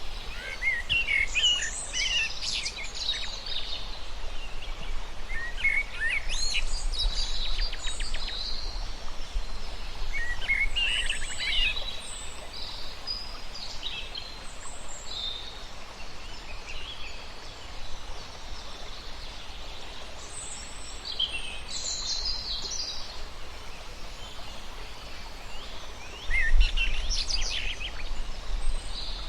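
Birds singing and calling in repeated bouts of chirps and quick trills, over a steady outdoor background hiss and a low rumble that swells near the end.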